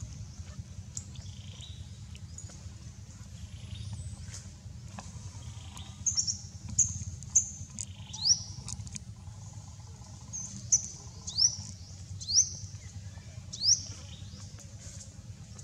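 A small bird calling with a run of about eight short, high chirps and quick upslurred whistles, clustered in the middle and later part, over a steady low rumble.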